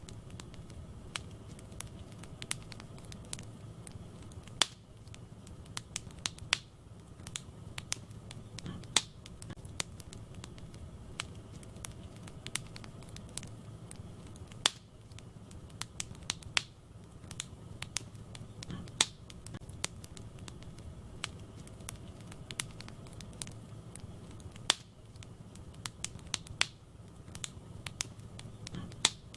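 Wood fire burning in a fireplace: a steady low rumble of flames with irregular crackles and sharp pops from the burning logs, a few louder snaps every several seconds.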